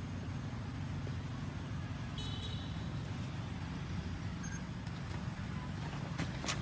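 A steady low rumble like a motor vehicle running nearby. A brief high chirp comes about two seconds in, and a few sharp clicks near the end.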